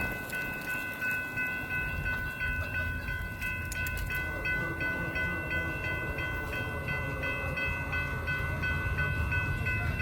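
A train running by with a low rumble. A steady, high-pitched ringing of several tones sits over the rumble throughout, with a faint regular pulse in it.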